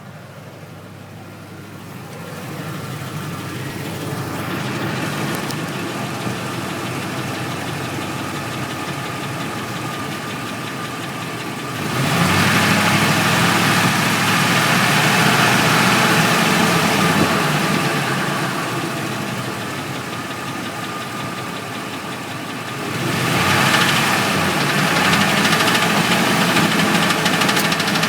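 2004 Ford F-150 engine running with a knocking noise. It gets louder about twelve seconds in, eases back, and gets louder again near the end, as if revved.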